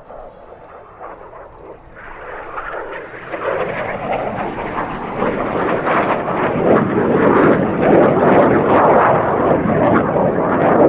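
F-5B Tiger's twin J85 turbojets on a flat pass. The jet noise builds from faint to a loud, rough roar over the first several seconds as the jet approaches, and stays loud.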